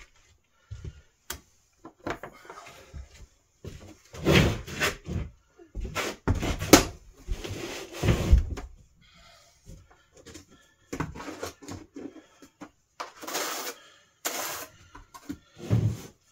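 Irregular knocks and clatter of hand work, with several stretches of rustling.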